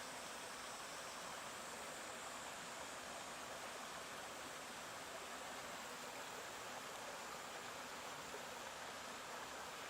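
Stream water flowing over rocks, a steady even rush without breaks.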